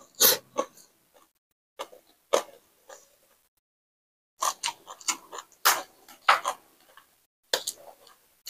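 Close-up eating sounds: lips smacking and chewing on a mouthful of rice noodles and fresh greens, a run of short wet clicks with a pause of about a second in the middle.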